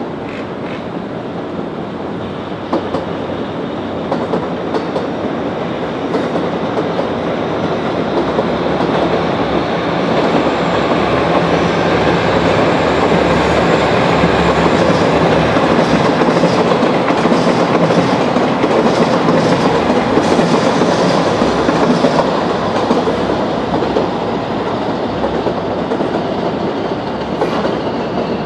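Shinkansen bullet train moving through the station, a steady rush of wheel and running noise with rail clicks. It grows to its loudest past the halfway point and eases off near the end.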